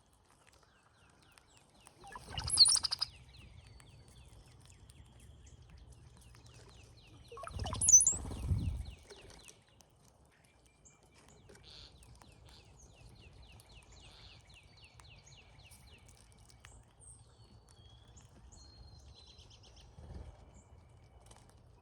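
Brown-headed cowbirds at a feeder: two loud calls, about two and a half and eight seconds in, each ending in a thin, high, sliding whistle, with fainter chirps in between and later.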